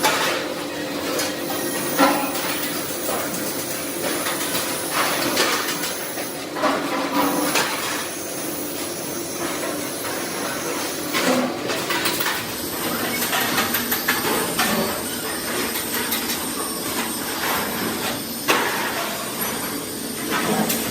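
Metalworking noise: irregular knocks and clanks of steel being hammered and handled, over steady workshop noise.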